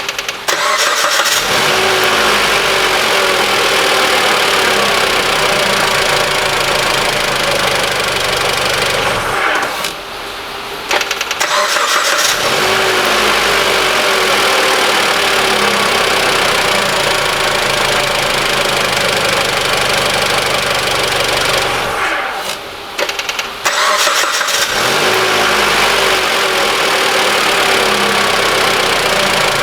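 Mitsubishi ASX 1.8-litre petrol engine being started, idling, switched off and started again: it starts about half a second in, runs about nine seconds, stops, restarts about a second and a half later, and the same happens once more past the middle. It idles evenly, with no rattle from the newly replaced alternator overrunning-clutch pulley.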